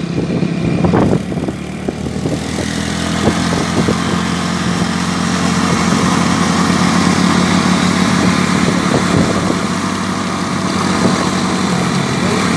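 Motorcycle engine running steadily while riding, with a rushing noise of air and road building up about two seconds in.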